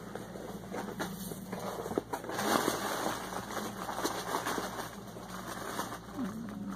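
Packaging being rustled and handled as a box is opened, with scattered small clicks and a denser stretch of rustling a couple of seconds in, over a steady low hum.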